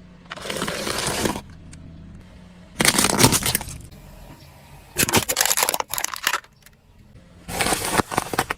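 Objects being crushed under a car's tyres: four loud crunching bursts, each lasting about a second, over the low steady hum of the car's engine.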